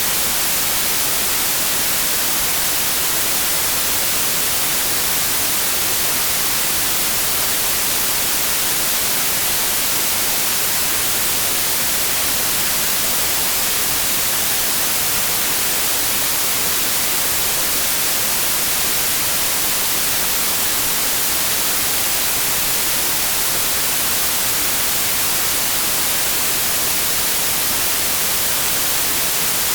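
Steady synthetic white noise: an even, unbroken hiss, strongest in the high frequencies.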